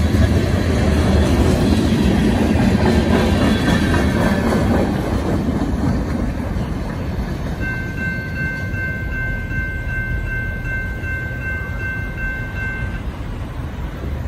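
Freight train cars rolling past with a heavy rumble and wheel clatter, fading as the end of the train moves away. In the second half a steady high-pitched tone holds for about five seconds, then stops.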